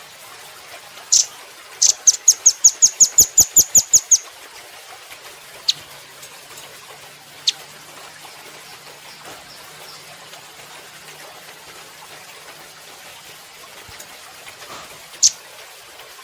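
Velvet-fronted nuthatch (rambatan doraemon) calling: a single sharp, high chip, then a fast trill of about a dozen chips over two seconds, followed by three widely spaced single chips.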